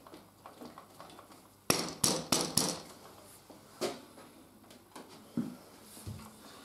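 A run of four sharp knocks about two seconds in, then single knocks near four seconds and again later, from work on a motorcycle's front fork leg as it is shifted in the triple clamp to set its height.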